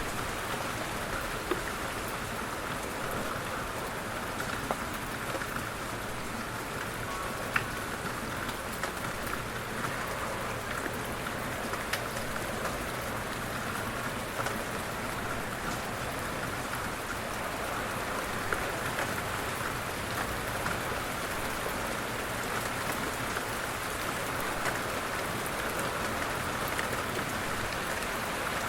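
Light rain falling steadily, an even hiss with scattered individual drop ticks, no thunder.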